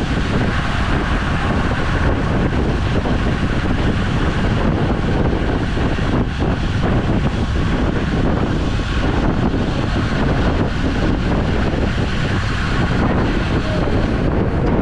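Steady, loud wind rushing over the microphone of a camera riding on a road bike, with a deep rumble and no let-up.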